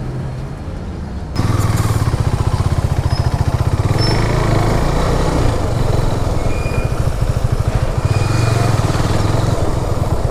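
Motorcycle engine running with a steady, rapid low throb, starting abruptly about a second and a half in and holding on loud.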